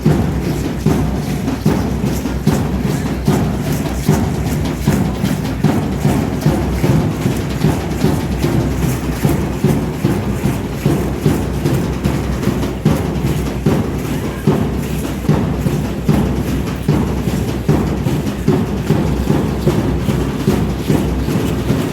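Aztec dance drumming: a drum beaten in a steady rhythm of about two strokes a second.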